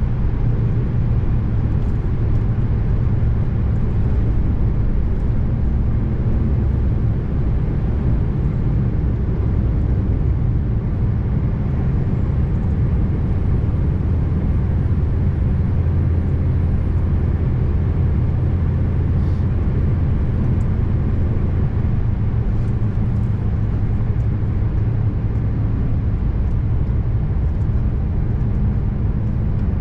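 Scania R590's V8 diesel engine running steadily with the truck under way, a low, even drone mixed with road noise.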